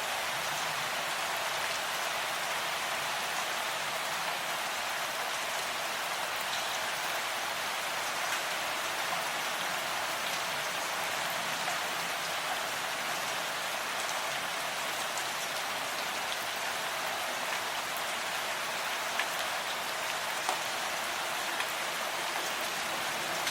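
Steady rain falling, drops pattering on a surface with occasional sharper drip ticks.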